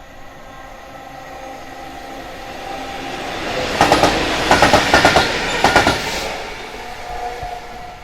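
Freight train wagons rolling past, their wheels clattering over rail joints in quick groups of clicks, loudest about four to six seconds in, with a thin ringing from the rails and wheels, then fading away.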